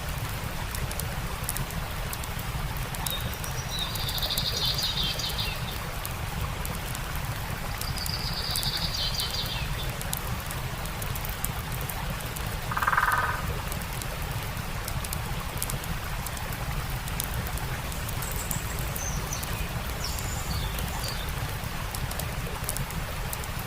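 Steady rushing of a stream, with a campfire crackling faintly over it. Birds call several times: short trills about 4 and 8 seconds in, a louder, lower call about halfway, and high chirps later on.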